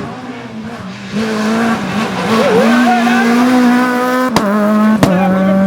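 Rally car engine coming up loud about a second in and holding high revs. Two sharp cracks follow near the end.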